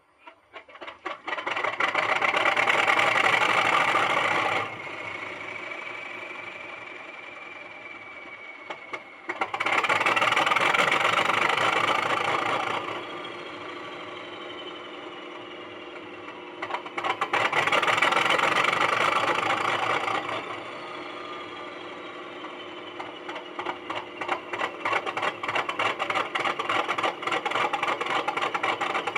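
Sound-fitted model Class 31 diesel locomotive's decoder playing its diesel engine sound through the model's small speaker. There are three loud stretches of a few seconds each, with quieter running and a faint, slowly falling whine between them.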